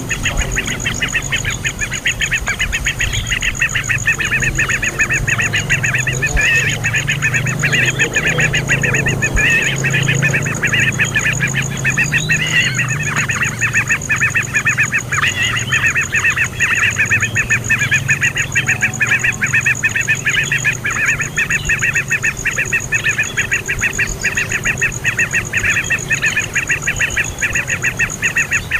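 Baby bird calling in a rapid, nonstop stream of short chirps.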